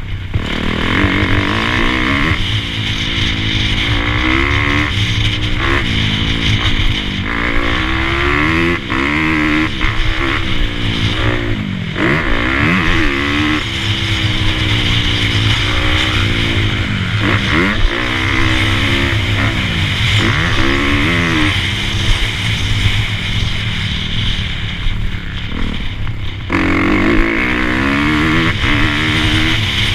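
Dirt bike engine being ridden hard, its pitch repeatedly climbing and dropping as the throttle is opened and closed through the gears, with a sudden jump in engine note about four seconds from the end.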